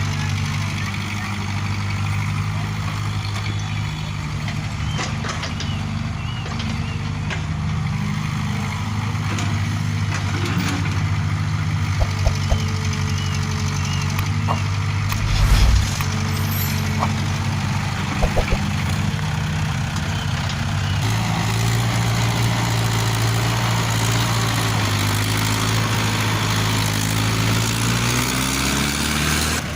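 Heavy vehicle engine running steadily at idle, its pitch stepping up slightly about two-thirds of the way through, with a few short knocks near the middle.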